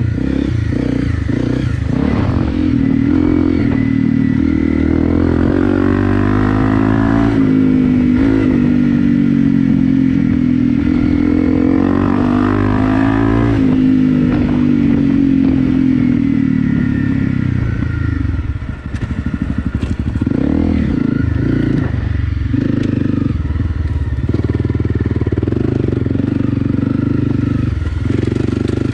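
Honda CRF250 Rally's single-cylinder four-stroke engine under way on a dirt trail. The throttle goes on and off, so the engine note rises and falls again and again, with a brief drop-off about two-thirds of the way through, and some clattering from the bike.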